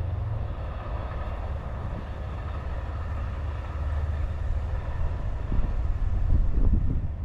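A train running, heard as a steady low rumble, with louder low buffeting in the last couple of seconds.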